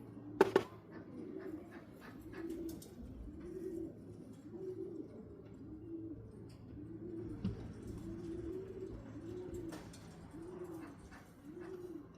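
Racing pigeon cooing over and over in the loft, a steady run of low rising-and-falling coos about one every three-quarters of a second. A sharp double knock sounds about half a second in.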